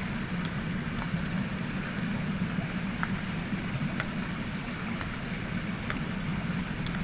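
Mountain stream rushing steadily, with a few sharp crackles from a wood campfire scattered through it.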